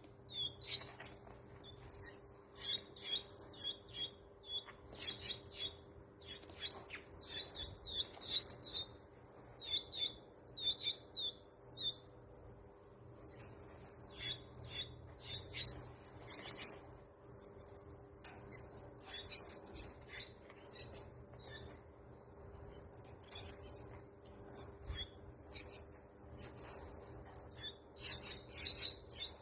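Myna calling over and over: a dense run of short, sharp, high-pitched notes and chattering whistles with hardly a pause.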